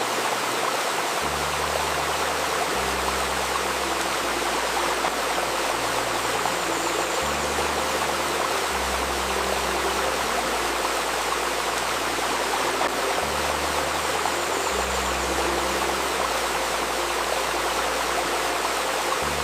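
Steady rushing and babbling of a flowing stream. Underneath it, soft low electronic tones are held and change note every second or two: a healing-tone drone layered under the water.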